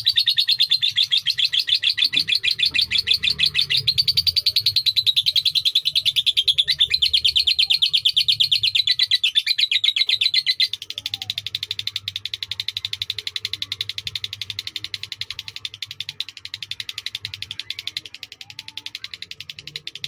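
Lovebird giving one long unbroken trill of rapid repeated high chirps, the long-duration 'ngekek' song valued in Indonesian lovebird contests. It gets somewhat softer about halfway through but does not break.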